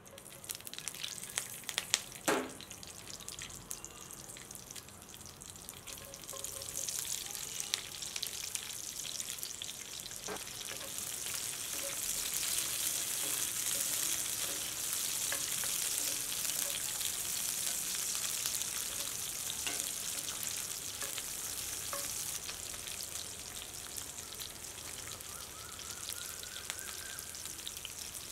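Green chillies and halved small red onions frying in hot oil in a cast-iron skillet, stirred with a wooden spoon. There is a sharp knock about two seconds in. The sizzling then builds and stays loud through the middle, with scattered pops and crackles.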